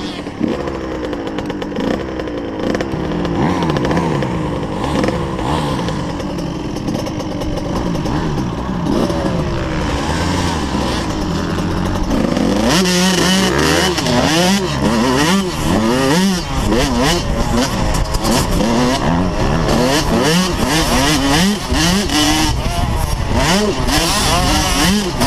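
Motocross dirt bike engine revving up and down, its pitch rising and falling with each throttle change. It gets louder about halfway through, and the revs then swing up and down faster.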